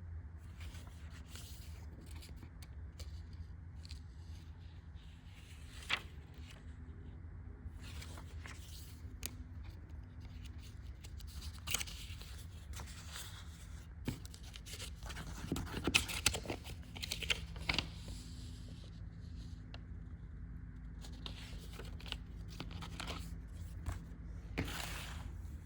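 Paper rustling and sliding as logbook pages are handled and turned, in scattered short bursts that are busiest in the middle, over a steady low hum.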